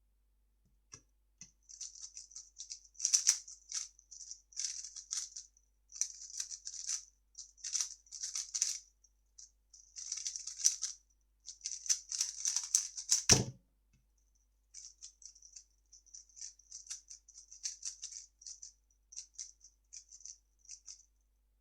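A 3x3 speedcube being turned very fast, its layers clicking and rattling in quick runs for about twelve seconds, ending in a single thump. After a short pause, lighter, sparser turning clicks follow.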